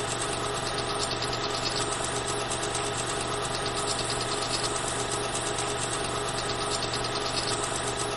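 Film projector running: a steady whirring, clattering mechanism at an even level.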